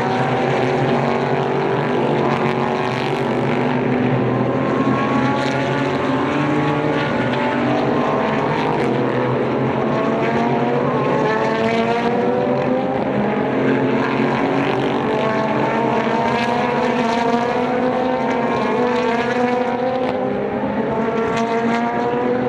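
Super GT race car engines accelerating, several at once: many rising pitches overlap, each climbing and then dropping back at a gear change before climbing again, loud and continuous.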